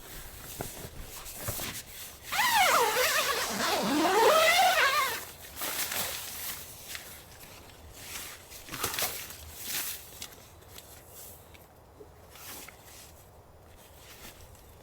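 An animal call about two seconds in, lasting about three seconds, its pitch sliding down and back up in wavering sweeps. Faint scattered clicks and ticks follow.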